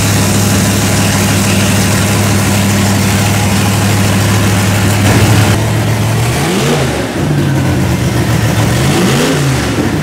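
Car engine idling steadily, then revved briefly twice in the second half, the pitch rising and falling back each time.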